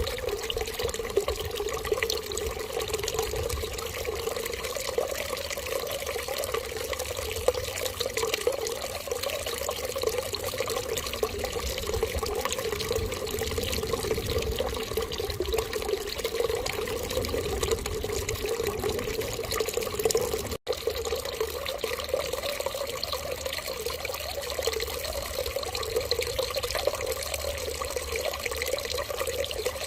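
Steady running water, like a tap left running, with an unbroken even rush. It cuts out for an instant about twenty seconds in, then carries on unchanged.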